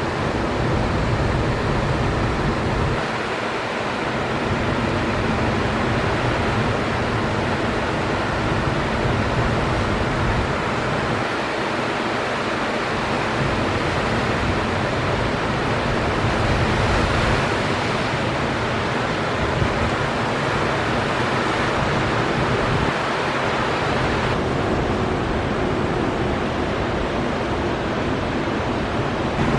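Ocean surf breaking heavily on a reef and shore, a steady wash of noise with no let-up. A low rumble under it, typical of wind on the microphone, dips away briefly a few times, and a faint steady hum sits beneath.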